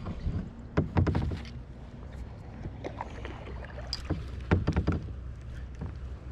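Kayak being paddled: two bouts of paddle strokes with splashing and knocks, about a second in and again at about four and a half seconds, over a steady low rumble of moving water and wind.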